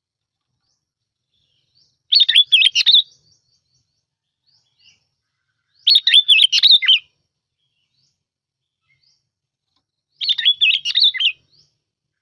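Bulbul song used as a lure recording: three short, fast warbling phrases of quick rising and falling notes, each about a second long, repeated about every four seconds.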